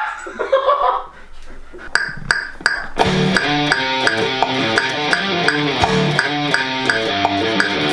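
Guitar-driven rock music kicks in about three seconds in, after a few evenly spaced clicks, and runs on with a steady beat. A short vocal sound is heard in the first second.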